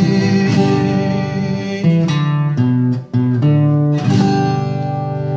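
Acoustic guitar strumming the closing chords of a song. It cuts out briefly about three seconds in, then a final chord is struck and left to ring and fade.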